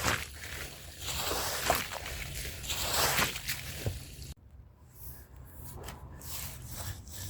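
Stiff hand brush scrubbing a wet, soapy rug in repeated strokes, bristles rasping and squelching through the foam. About four seconds in the sound drops suddenly to a quieter stretch of sparser rubs and clicks.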